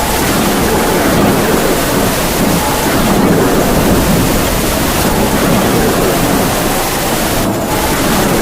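Heavy rain falling steadily as a dense hiss, with wind howling in a faint moaning tone that rises and falls.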